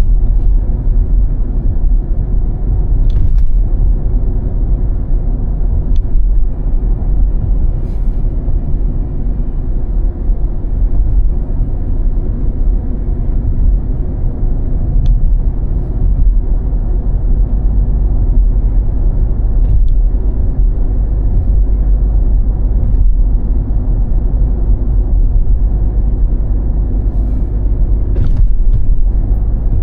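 Steady low rumble of a car driving on snowy roads, engine and tyre noise, with a few faint ticks scattered through.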